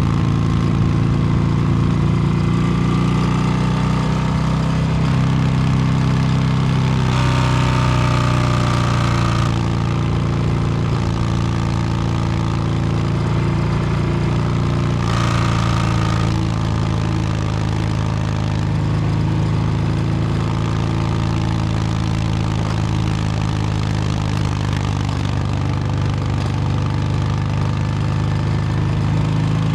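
2022 Harley-Davidson Low Rider S Milwaukee-Eight 117 V-twin running through an S&S Superstreet 2-into-1 exhaust while riding. Its pitch shifts with the throttle, with two brief surges about seven and fifteen seconds in.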